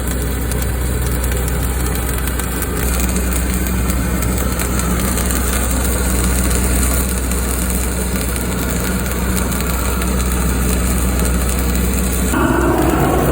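An engine idling steadily, a low, even hum, with a brighter, louder change in the sound near the end.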